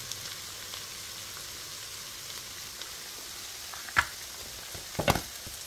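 Chopped onion frying in a pan with a steady sizzle. A sharp knock sounds about four seconds in, and a short cluster of knocks about a second later.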